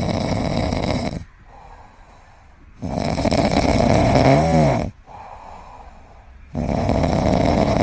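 A pet dog or cat snoring: three long, loud snores about two seconds apart, with quieter breathing between them. The middle snore ends in a wavering whistle-like note.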